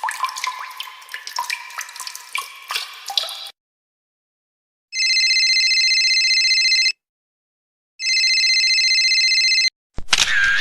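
Water drops dripping and plinking for about three and a half seconds, then after a short pause a telephone ringing twice, each ring about two seconds long. A loud drum hit begins near the end.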